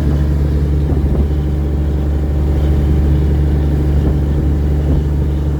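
Fishing boat's engine running at a steady speed, a loud, unchanging low drone.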